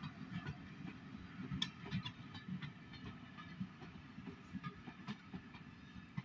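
Passenger coaches of a passing heritage train rolling along the track: a low rumble with irregular clicks and knocks from the wheels, slowly fading as the rear of the train moves away.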